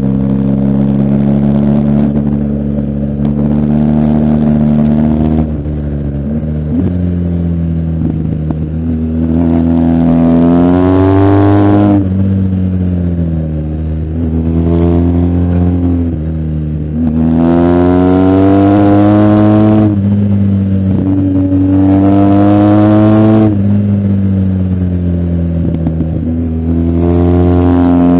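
BMW R1250GS Adventure's boxer twin engine pulling hard through the gears. The revs climb and then drop sharply at each upshift, several times over, with a stretch of falling revs on a closed throttle in between.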